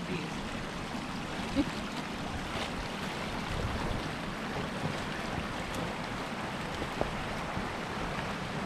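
Steady rush of a brook running beside the trail, with a couple of faint knocks.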